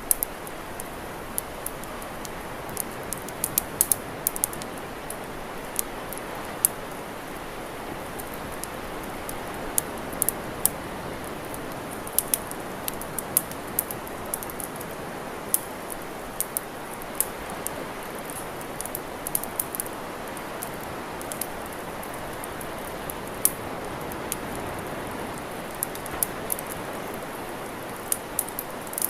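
Wood campfire crackling, with frequent sharp, irregular pops and snaps over a steady rushing hiss.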